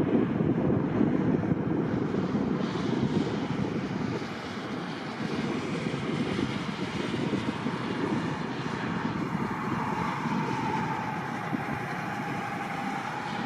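Jet airliner engines running, a steady rumble. A faint whine appears about ten seconds in and drifts slightly lower.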